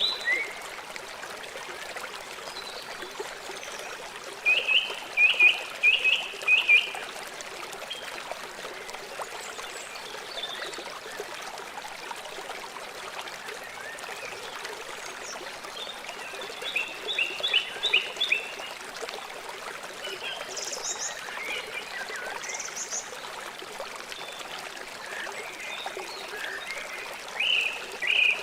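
River water flowing steadily, with several bursts of a short animal call repeated about two notes a second, and a couple of brief high chirps.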